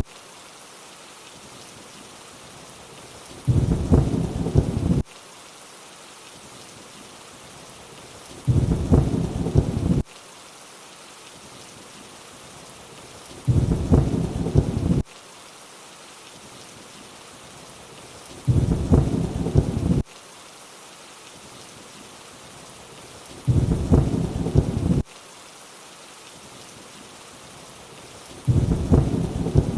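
Steady rainfall with a short low rumble of thunder about every five seconds, each lasting about a second and a half and starting and stopping abruptly, at evenly spaced intervals like a repeating loop.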